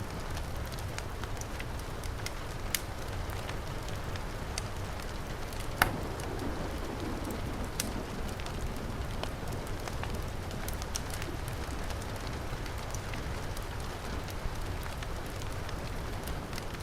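Heavy rain falling steadily, mixed with a fireplace fire crackling: scattered sharp pops over the rain's even hiss, the loudest pop about six seconds in.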